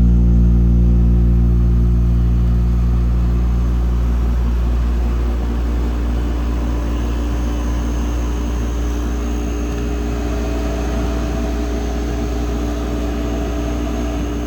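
A 10,000 BTU through-the-wall Emerson Radio air conditioner running just after startup: a strong compressor hum that eases over the first few seconds, settling into a steady run with fan and airflow noise.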